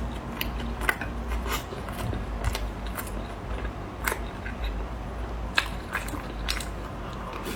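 Close-up eating sounds: someone biting and chewing a salad with cucumber, with irregular crisp crunches and clicks spaced unevenly, a few per second at most.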